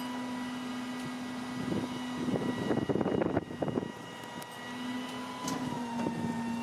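Peterbilt crane garbage truck running, with a steady hum and a higher steady whine. A stretch of rough rumbling swells about three seconds in, with a few brief clicks.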